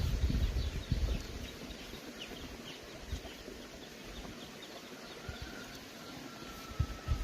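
Small birds or poultry chirping in many short, quick notes, with low thumps and flapping in the first second or so. A thin steady tone joins in over the last two seconds.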